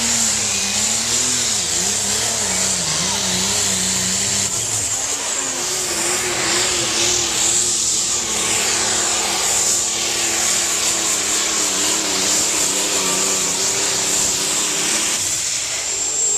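Pulling tractor's engine running hard under full load during a pull, its pitch wavering up and down over a dense exhaust noise. The engine note steps higher about four and a half seconds in and eases near the end.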